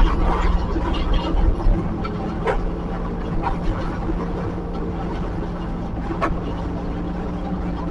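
Heavy earthmoving machine's engine running steadily, with a few sharp metallic knocks.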